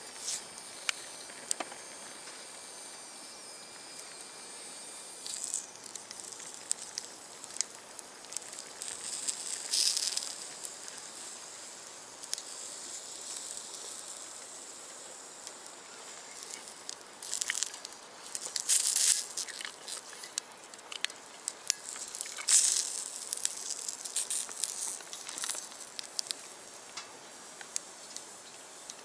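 Small wood fire in a box stove crackling with scattered sharp pops, with several louder bursts of hissing sizzle.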